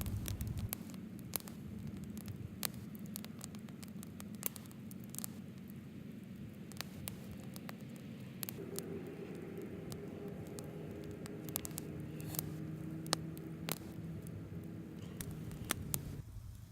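Wood fire crackling, with sharp pops scattered all through, over a steady low hum.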